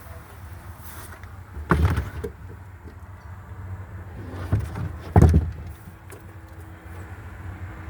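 Two solid thumps of a part of a 2012 Range Rover Evoque being shut, about three and a half seconds apart, with a lighter knock just before the second.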